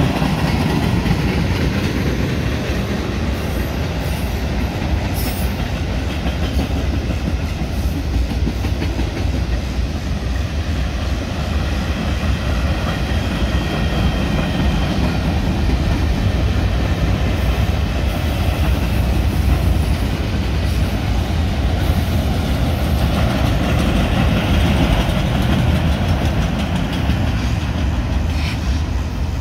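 Mixed freight train passing at close range: tank cars and autorack cars rolling by, a steady, continuous noise of steel wheels on the rails.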